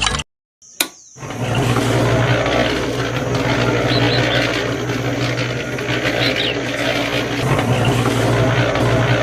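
A small motor running steadily with a low hum, starting about a second in after a brief silence and a click.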